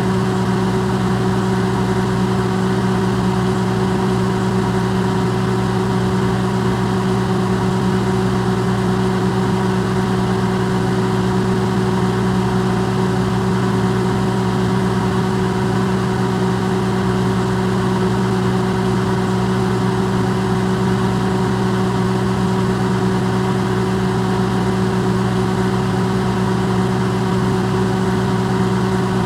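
Electrolux microwave oven running, recorded amplified: a loud, unchanging hum with several steady tones over an even whir.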